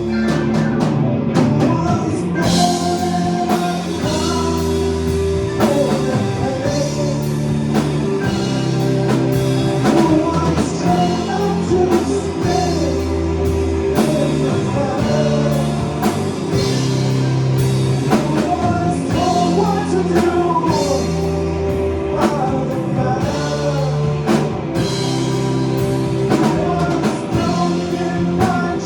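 Rock band playing live: a sung vocal line over drums, bass and sustained chords.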